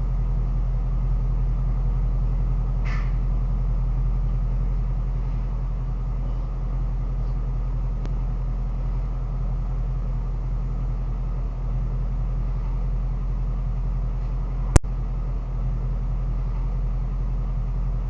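Steady low rumble of a Shelby GT350's 5.2-litre V8 running, with one sharp click about fifteen seconds in.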